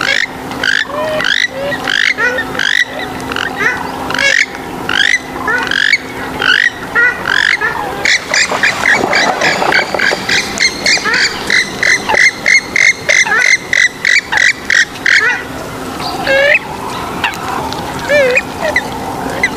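Swamphen and moorhen calls, repeated short sharp notes that glide in pitch. They come two or three a second, then in a fast run of about five a second for several seconds around the middle, then more scattered.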